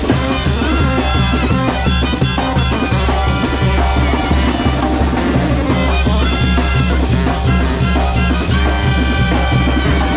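Mexican banda, a brass band with drums, playing a lively tune with a steady beat and sustained brass lines.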